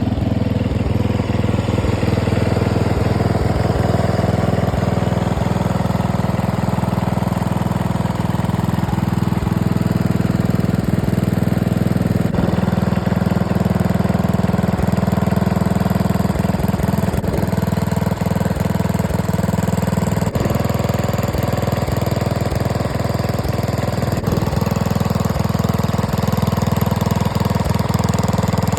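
Engine fitted with a new exhaust, idling steadily at an even level without revving.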